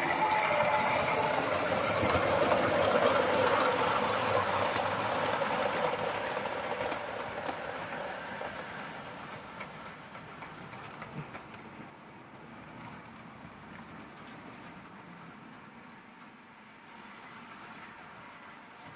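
OO gauge model train running on the track with wheel clatter and motor whir, loudest near the start and fading away over about ten seconds as it moves off.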